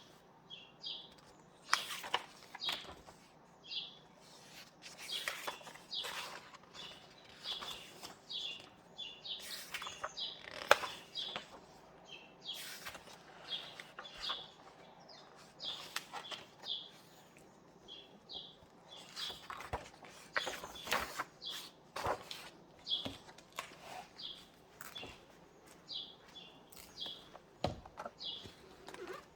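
Paper rustling and book pages being turned, in irregular swishes and crinkles, with small birds chirping briefly over and over.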